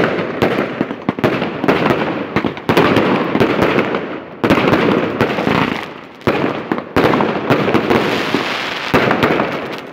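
Fireworks going off in quick succession: sharp bangs, each followed by a dense crackle that fades over a second or two.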